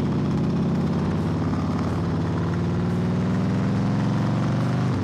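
Motorcycle engine running under way, its pitch rising slowly as it pulls, then dropping briefly near the end.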